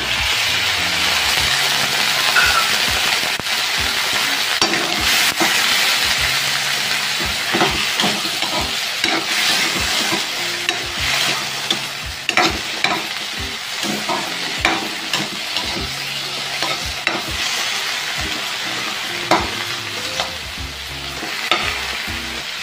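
Forest-snail meat and aromatics sizzling in hot oil in a metal wok, with a metal spatula scraping and clacking against the pan as it is stirred. The sizzle is loudest as the snails go in and slowly eases off.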